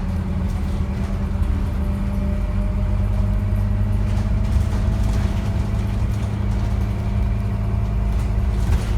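Scania N230UD double-decker bus's diesel engine running with a steady low drone, and a faint whine that slowly drops in pitch midway.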